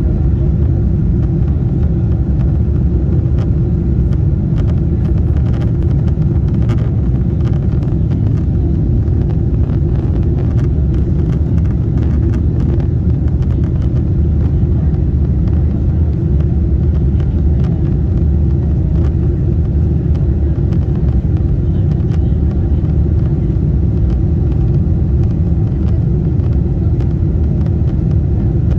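Steady low rumble of a Boeing 747-8 airliner's four GEnx jet engines and rushing air, holding an even level throughout.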